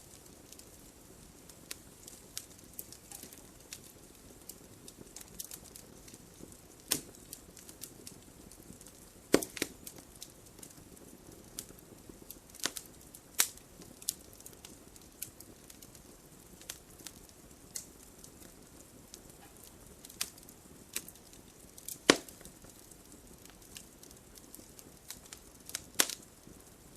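Wood logs burning in a fireplace, crackling with irregular sharp pops over a soft low hiss of flame, a few of the pops much louder than the rest.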